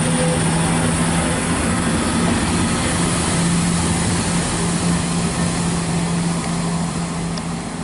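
Class 170 Turbostar diesel multiple unit pulling out under power, its underfloor diesel engines running with a steady low hum and a faint high whine. It fades slightly near the end as the train draws away.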